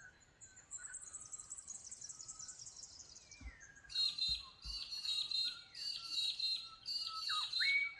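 Birds singing: a high, rapid trill that slowly falls in pitch for about three seconds, then four loud bursts of quick chirping notes about a second apart, with softer whistled notes beneath.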